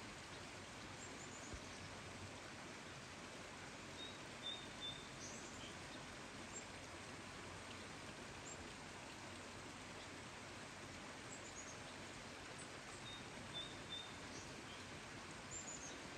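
Faint steady hiss of rain, with a small bird giving short high chirps and twitters, twice.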